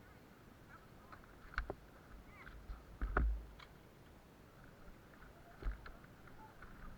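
Quiet background broken by a few short, sharp knocks and thumps, the loudest about three seconds in.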